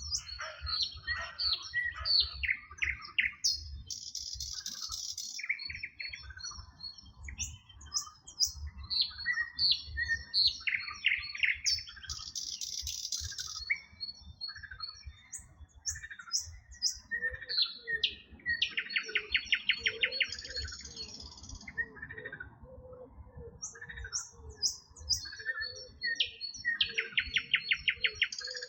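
Several songbirds singing and chirping together, with short whistled notes, hissy buzzes and rapid trills. From partway through, a lower note repeats over and over beneath the birdsong.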